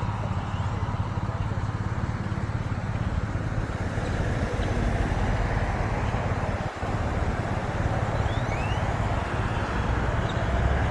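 Road traffic passing in a school zone, a steady low rumble of engines and tyres with a brief lull about seven seconds in.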